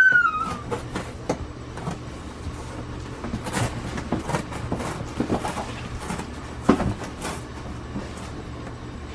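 Cardboard being cut and handled: irregular scraping, scratching and light knocks. A short high squeak fades out right at the start.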